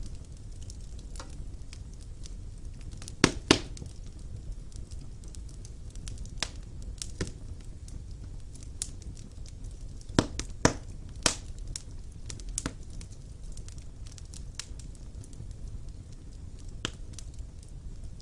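Wood fire burning in a stone fireplace: a low steady rumble of flames with irregular crackles and pops, the sharpest a pair of loud pops a few seconds in and another pair about halfway through.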